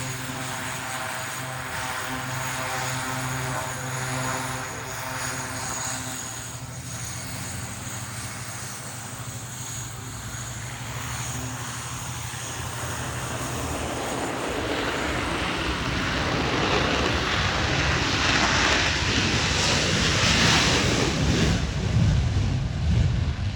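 Aircraft engine noise: a steady engine hum with even tones for about the first half, giving way to a rushing noise that swells louder and peaks a few seconds before the end.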